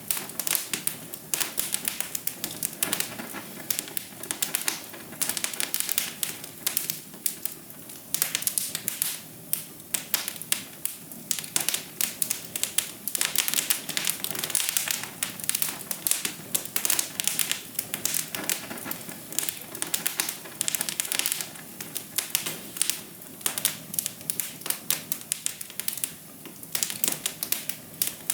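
Wood fire crackling in a fireplace: dense, irregular snaps and pops over a steady low hiss.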